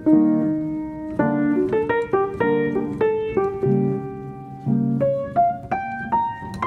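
Background piano music: a slow melody of single notes over held lower chords.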